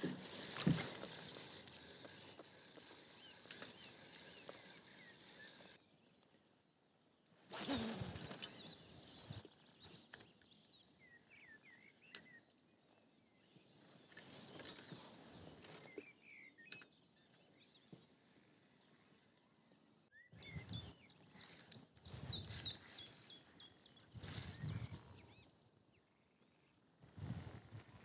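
Songbirds chirping and singing around a calm river. Short bursts of close noise come in between, the loudest about eight seconds in.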